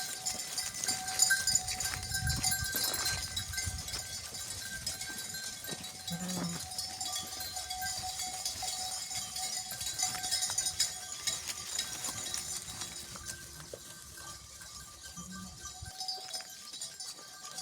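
Farm animals bleating now and then, with bells ringing steadily over them.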